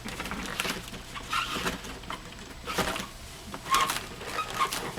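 A Honeywell media air filter being pushed into its cabinet: the filter frame scraping and rubbing against the air sealing strip in a few separate pushes, some with a short squeak.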